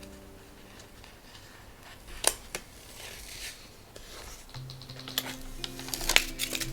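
Soft background music with held notes. A couple of sharp clicks come about two seconds in, and a quicker run of clicks and snips near the end, from paper and stationery being handled.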